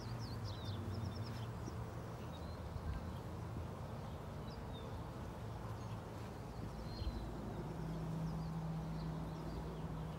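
Quiet outdoor ambience: a low steady hum with a few faint, short bird chirps, most of them in the first second or so and another about seven seconds in.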